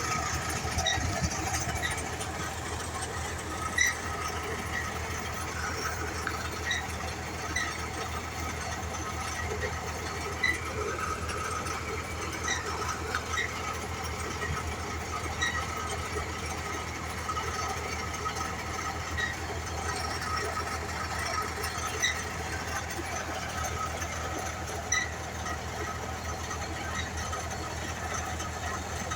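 Borewell drilling rig running: a steady low machine drone with sharp clinks every few seconds at uneven intervals.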